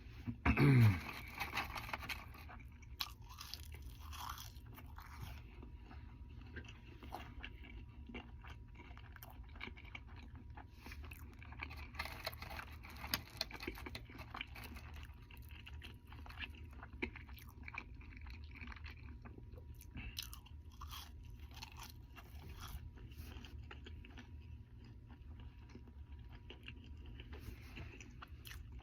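Close-up chewing and biting of a Double Big Mac burger, with many small wet mouth clicks and smacks. A short vocal sound falling in pitch comes about a second in.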